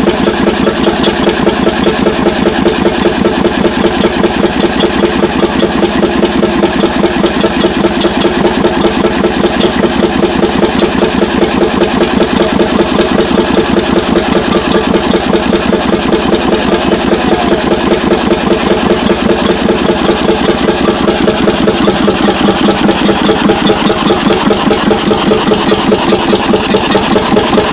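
Levahn two-stroke diesel boat engine, 10 litres and 28 hp, idling steadily with an even, regular beat of firing strokes.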